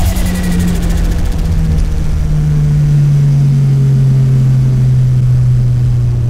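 Nissan Silvia S15 drift car's turbocharged SR20 four-cylinder engine, heard from inside the cabin, holding a steady note under way that sags slightly. A fast chatter is heard briefly near the start.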